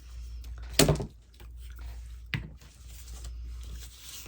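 Paper craft scraps being handled while someone rummages through them, with two short handling noises, the louder about a second in and another past the middle.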